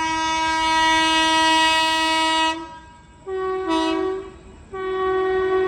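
Train horn blowing in loud blasts. A long held note cuts off about two and a half seconds in. A shorter blast follows whose pitch steps partway through, and another blast starts near the end.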